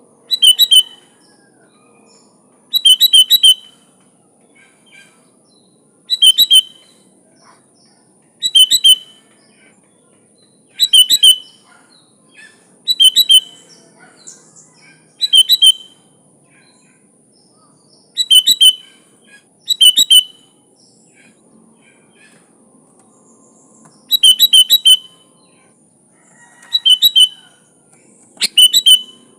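Sooty-headed bulbul (kutilang) calling in short, loud chirping phrases of about half a second, repeated every two to three seconds.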